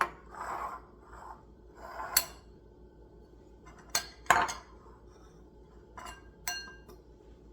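Kitchen dishes and utensils being handled: a scattering of short clinks and knocks, the sharpest pair about four seconds in, as bowls of egg and breadcrumbs are set up for breading oysters.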